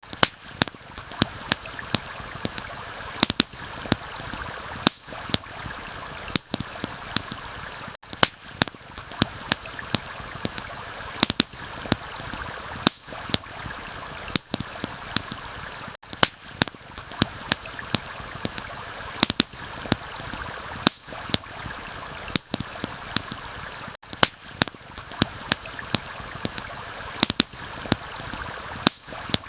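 Steady rushing of a stream, with many sharp, irregular pops and crackles of a wood campfire over it.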